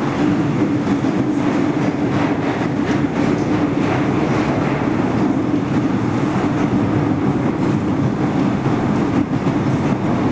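MTR M-Train electric multiple unit running at steady speed: an even rumble with a constant hum and faint rhythmic clicking of the wheels over rail joints.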